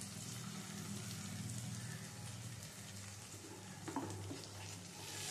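Poppy-seed and tomato masala, loosened with water from rinsing the grinder jar, sizzling softly in mustard oil in a kadai over a steady low hum. A wooden spatula knocks against the pan once about four seconds in.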